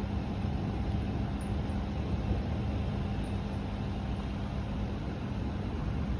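Typhoon wind blowing steadily, a low rushing noise without gusts or breaks, with a faint steady hum underneath.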